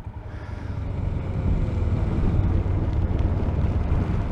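Royal Enfield Himalayan's single-cylinder engine pulling away and running on the road, picked up by a microphone inside the rider's helmet with some wind noise. It grows louder about a second in, then holds steady.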